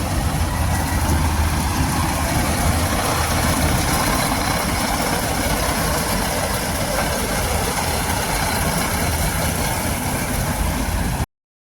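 Combine harvester running steadily in a wheat field, a dense mechanical noise over a low engine hum, which cuts off abruptly near the end.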